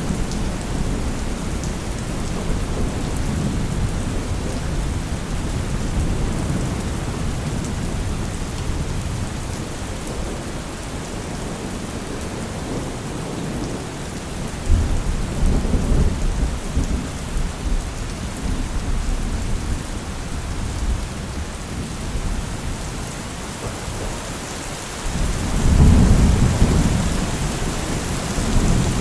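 Steady rain with thunder rumbling. A low roll swells about halfway through, and a louder rumble comes a few seconds before the end.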